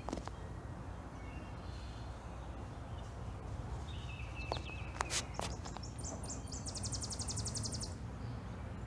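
Woodland ambience: a steady low outdoor rumble with birds chirping, and a fast, high, even trill for about a second and a half near the end. Two sharp clicks about five seconds in.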